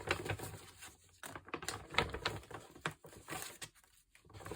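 Sheets of paper and card being handled and shuffled: a run of rustles and light taps and clicks, easing off near the end.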